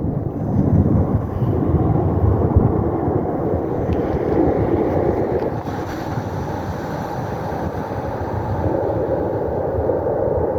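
Loud, steady rumble of jet aircraft engines during an air show flyover, with wind buffeting the microphone.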